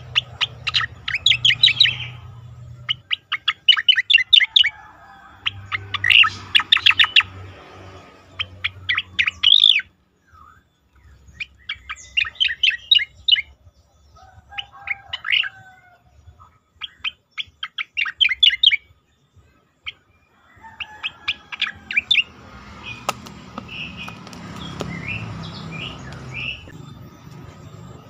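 Cica koreng songbird singing in bursts of fast, rapidly repeated chirping notes a few seconds long, separated by brief pauses.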